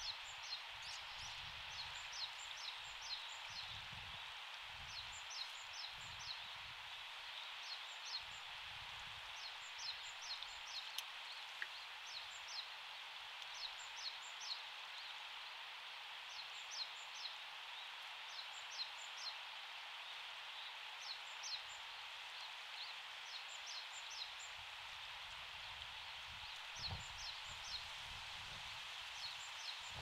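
A small bird calling over and over in quick runs of two to five high, thin, falling notes, a run every second or two, over a steady background hiss.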